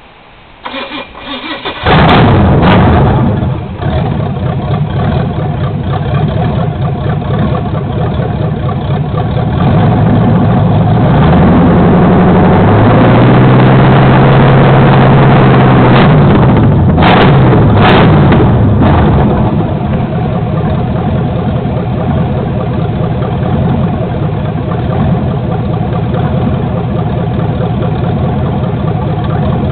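1983 Chevrolet Malibu wagon's 383 stroker small-block V8, not yet tuned, loud through open headers: the starter cranks briefly and the engine catches about two seconds in. Engine speed rises, holds for a few seconds, then falls back with a few sharp cracks before it settles into a steady idle.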